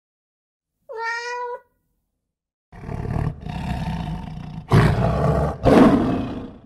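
A domestic cat gives one short meow about a second in. From about three seconds in, a lion roars, loudest in two strong calls near the end.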